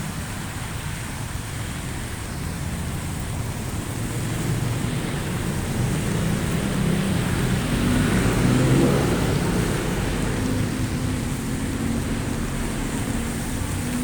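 Steady heavy rain with the low rumble of a car on a wet road, swelling as it passes about eight to nine seconds in.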